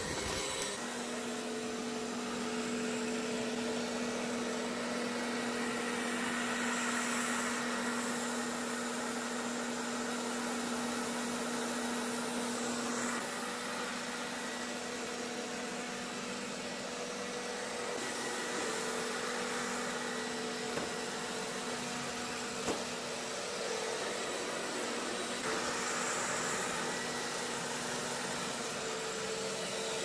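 Roborock S6 MaxV robot vacuum running: a steady motor whine over an even fan hiss, with its tones shifting slightly a few times.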